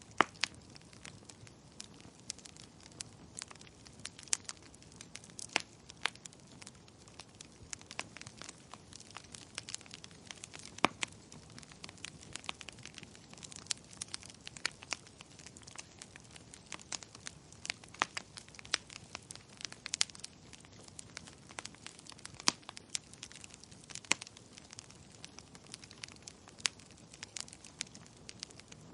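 Wood fire crackling in a fireplace, with irregular sharp pops and snaps over a low steady hiss.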